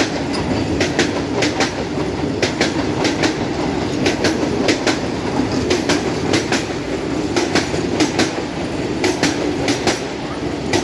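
Vande Bharat Express electric trainset passing close at speed. Its wheels click over the rail joints in quick pairs above a steady rolling rumble.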